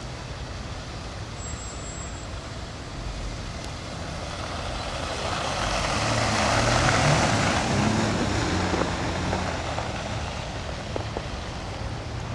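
A motor vehicle driving past, its engine and tyre noise swelling to a peak about seven seconds in and then fading.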